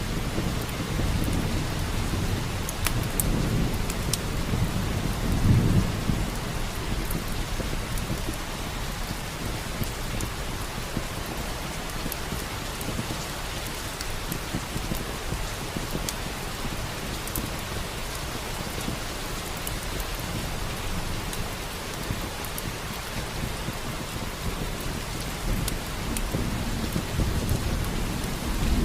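Steady rain with low rolling thunder that swells about five seconds in and again near the end, with scattered sharp clicks over the rain.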